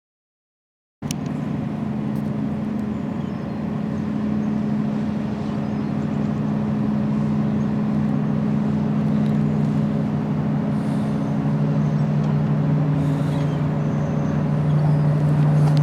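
A large engine running steadily, a low drone with a strong steady hum, starting suddenly about a second in and slowly getting a little louder.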